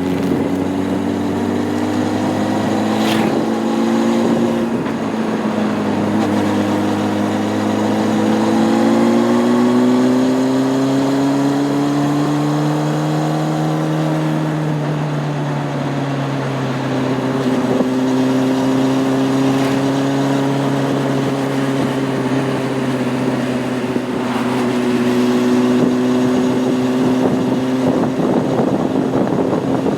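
Honda CB600F Hornet's inline-four engine running under way. Its pitch climbs steadily for several seconds as the bike accelerates, drops away about halfway through, then holds a steady cruise.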